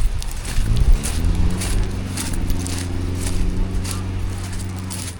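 An engine picks up speed about a second in, then runs at a steady pitch, with scattered clicks and knocks.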